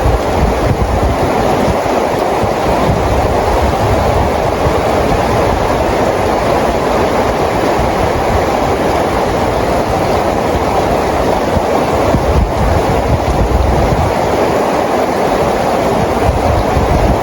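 Steady rainfall: a continuous, even hiss with a low rumble underneath.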